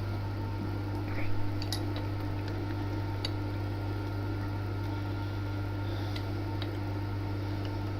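Steady electric-motor hum from the milling machine, with a few light metallic clicks and clinks scattered through it.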